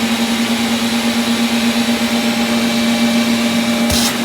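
Hoover vacuum cleaner running steadily on its low setting: an even motor hum over the rush of air. A single click sounds near the end.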